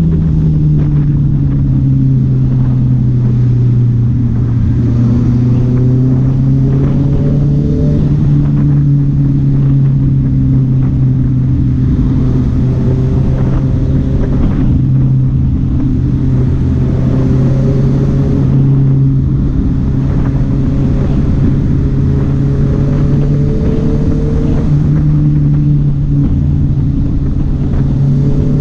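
Honda CB650R's inline-four engine running at steady mid revs. Its pitch dips a little at first, climbs slowly, and steps up once near the end.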